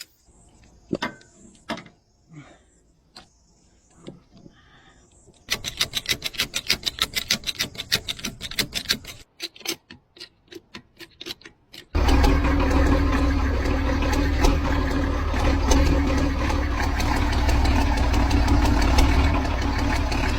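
Old bulldozer engine being cranked over, an even chuffing of about five strokes a second that falters and slows, then catching about twelve seconds in and running steadily with a deep rumble. A few faint clicks come before the cranking.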